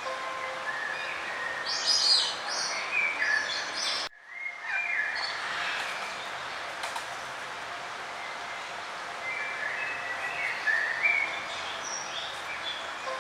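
Songbirds singing and chirping in short phrases over a steady background hiss. About four seconds in the sound cuts out abruptly and fades back in, with more birdsong after.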